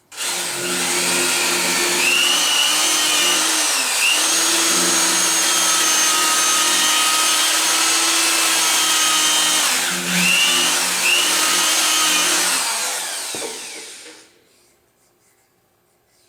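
Corded electric drill spinning a ball hone in an engine's cam gear shaft hole, deburring the bore. It runs steadily for about thirteen seconds, its speed dipping briefly twice, then winds down and stops.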